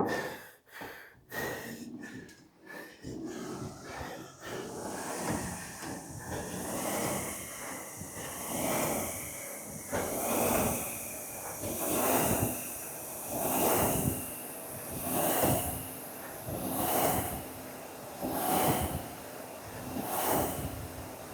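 Ski erg's fan flywheel whooshing up and down with each pull, about one stroke every 1.7 seconds, with a steady hum underneath and heavy breathing. The first few seconds hold irregular knocks and breaths before the strokes settle into a rhythm.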